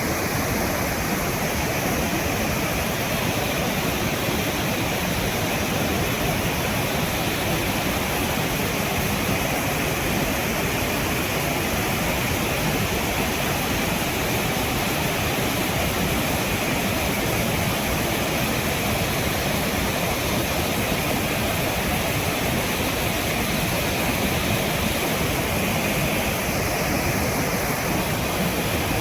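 Steady rush of water from a river waterfall, an even, unbroken noise.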